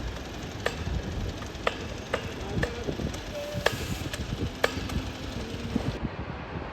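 Low rumble of airliner jet engines mixed with wind buffeting the phone's microphone, with a string of sharp clicks about once a second.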